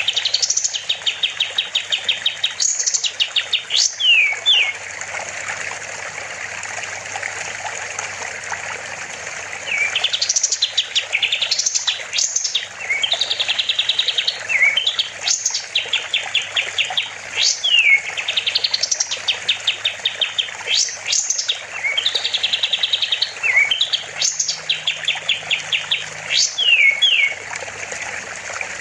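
A kapas tembak songbird sings in repeated bursts: fast, rattling trills of high notes mixed with sharp rising and falling whistled slides. The song stops for about five seconds partway through, then resumes. A steady hiss and a low hum run underneath.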